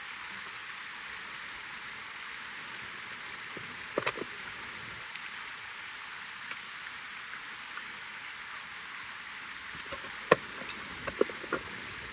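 Wood fire burning: a steady hiss with sharp crackling pops, one group about four seconds in and several more near the end.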